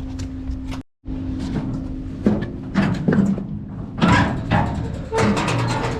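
Metal bangs and clatter of a Caterpillar V250 forklift's engine hood being unlatched and swung open, over a steady low hum. The knocks come irregularly from about two seconds in, the loudest near the end.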